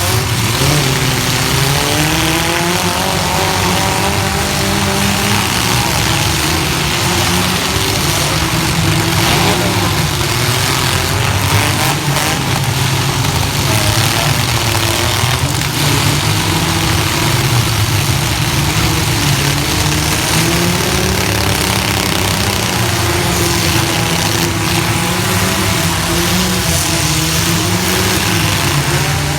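Several compact pickup-truck engines running hard in a demolition derby, revving with the pitch rising and falling, with a few knocks from collisions.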